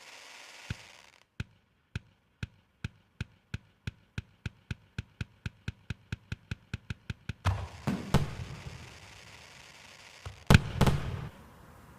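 Fireworks: a run of sharp single cracks speeding up steadily, then louder booming bursts about seven and a half seconds in and again near the end, the last the loudest.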